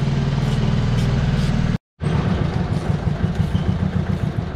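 New Holland T480S tractor's diesel engine idling steadily, with a brief dropout a little under two seconds in, then running on more unevenly and slowly getting quieter.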